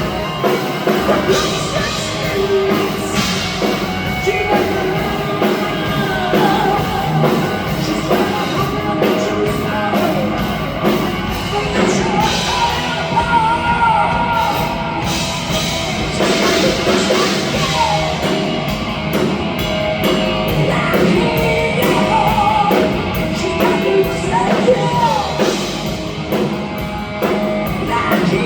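Live hard rock band playing, with singing over electric guitars and a drum kit, steady and loud throughout.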